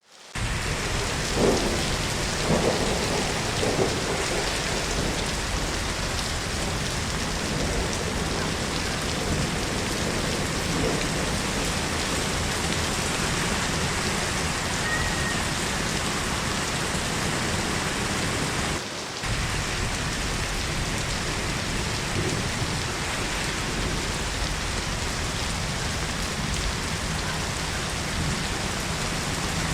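Heavy rain falling steadily, a dense even hiss, with a few louder knocks in the first few seconds and a brief dip in level about two-thirds of the way through.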